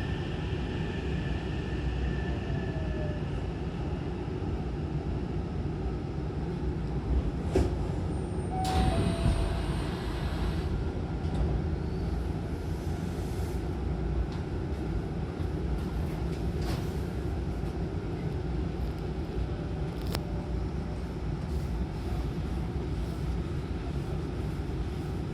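Hankyu Kobe Line train standing at the platform with its doors open: a steady low hum and rumble from the stopped train. A few sharp clicks and a short burst of hissing noise come about nine seconds in.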